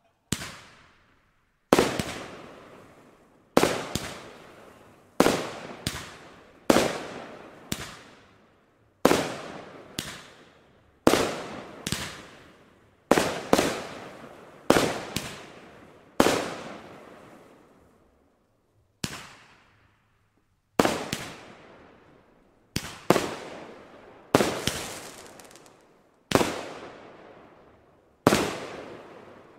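Consumer battery fireworks firing shot after shot. About two dozen sharp bangs of bursting shells come roughly one a second, each fading off in a long tail, with a short pause just past halfway.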